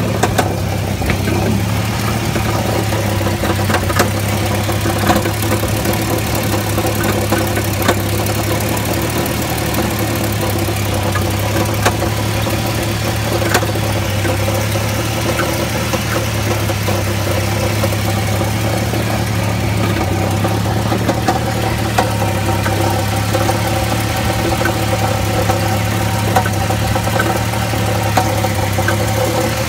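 Jeep Cherokee XJ's 4.0-litre inline-six running steadily, heard from beneath the vehicle, with an irregular rattle of sharp ticks over the engine hum. The source of the rattle is unknown; the flex plate has been checked and found tight and not cracked.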